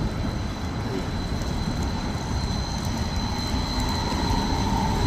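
A large vehicle running past on a wet street: a steady low rumble with a faint high whine, and a hum that grows stronger near the end.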